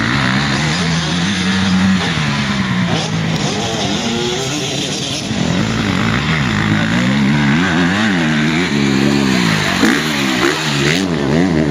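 Motocross bike engine running hard, its pitch rising and falling again and again as the throttle is worked, with quicker up-and-down revving in the second half.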